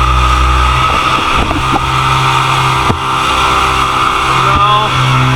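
Motorboat engine running steadily, with a few sharp knocks in the first three seconds.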